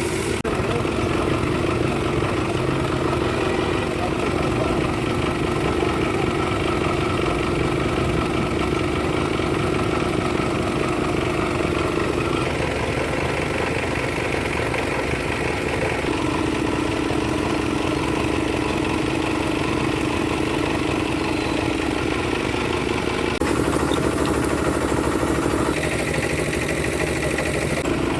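Rebuilt Hino truck diesel engine idling steadily. The tone shifts abruptly a few times.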